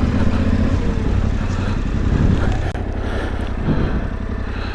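Yamaha Ténéré 700's parallel-twin engine running low and steady.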